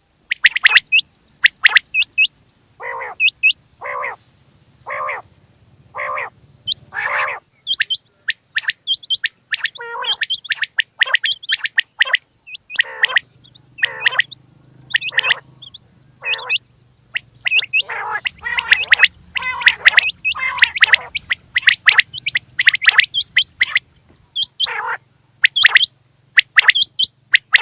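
Quail calling: a rapid series of sharp, short chirps, with a run of five evenly spaced calls about a second apart a few seconds in.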